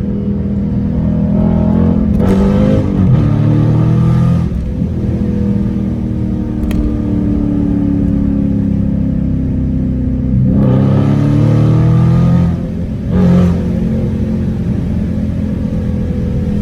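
Dodge Scat Pack's 392 Hemi V8 running under way, with two louder pulls as it revs up, about two seconds in and again about ten seconds in.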